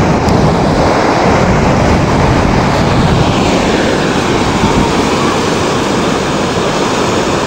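Ocean surf washing in steady and loud, with wind buffeting the microphone.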